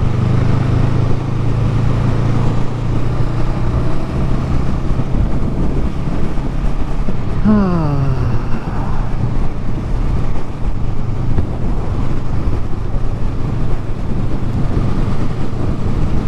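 Motorcycle engine running at road speed under steady wind rush. About halfway through, the engine note falls once, as the revs drop.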